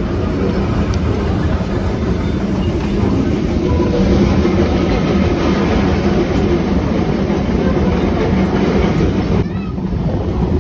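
Puffing Billy narrow-gauge steam train running along the track, heard from an open-sided carriage: a steady rumble of wheels on rails.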